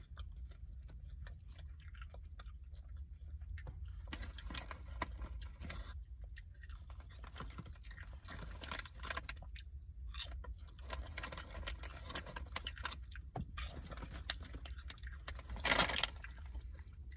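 A person chewing crunchy hot cheddar popcorn close to the microphone, with irregular crunches and wet mouth smacking. A brief louder burst comes near the end.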